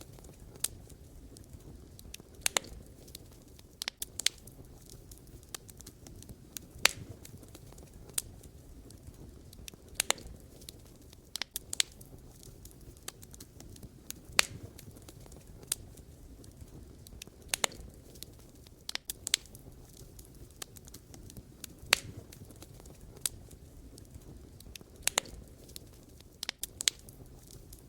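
Wood fire burning, with irregular sharp pops and crackles from the burning logs every second or two over a low steady rumble of the flames.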